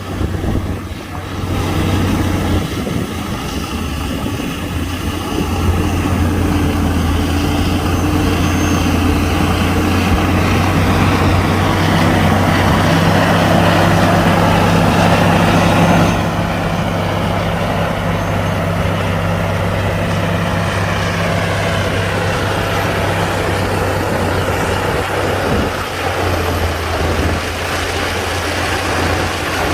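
Komatsu D60-P bulldozer's diesel engine running steadily, building up under load for a few seconds before the middle of the clip, then easing off abruptly.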